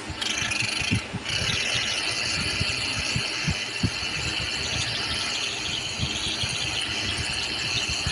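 Tractor diesel engine running, with a steady high-pitched whine over the engine's beat that comes in just after the start, breaks off briefly about a second in, then carries on.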